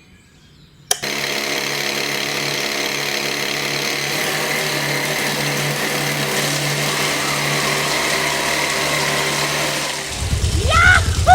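A small motor starts suddenly about a second in and runs at a steady pitch with an even hum for about nine seconds, then stops. Near the end come short rising and falling whistle-like glides.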